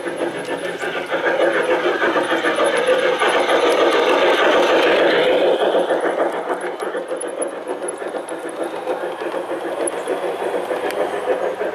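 G-scale model train running along the garden track, its motor and wheels clattering on the rails, growing louder as it comes close around the middle and then fading as it moves away.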